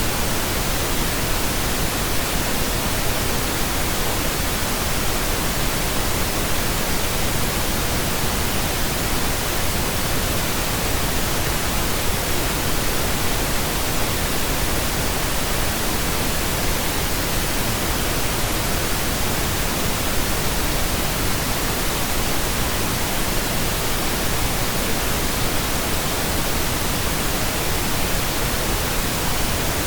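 Steady, unchanging pink noise: an even hiss with no tones, rhythm or breaks.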